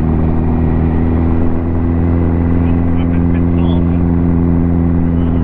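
Ducati motorcycle engine running steadily at an even cruising speed on the move, its pitch holding constant throughout.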